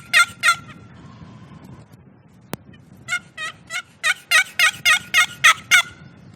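Wild turkey calling: three quick notes at the start, then a run of about ten evenly spaced yelp-like notes, three to four a second, from about halfway through. A single click sounds just before the second run.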